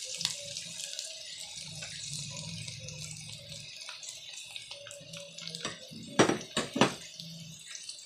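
Pork pieces sizzling in a hot wok, a steady hiss. A little after six seconds in come three sharp knocks close together.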